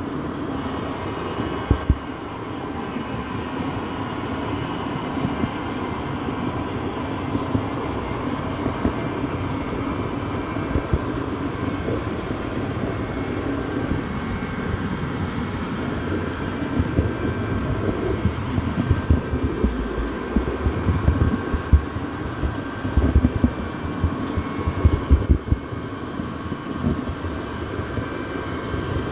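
Train in motion: a steady running rumble and rattle with a thin whine over it, and irregular low knocks and thumps that come more often in the second half.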